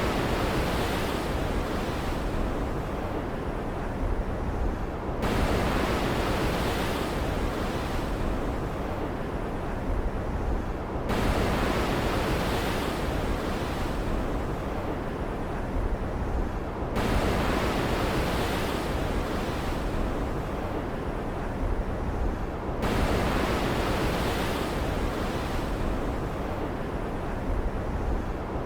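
Stormy ocean ambience: a constant low rumble under surf hiss that surges abruptly about every six seconds and then ebbs away, over and over.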